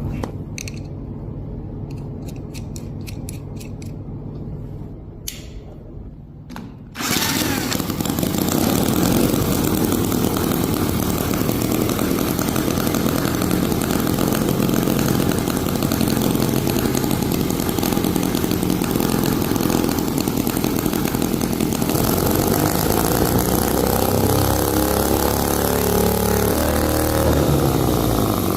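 Powered workshop machinery: a low hum with a quick run of sharp clicks, then about a quarter of the way in a loud, steady whirring noise starts abruptly and keeps going.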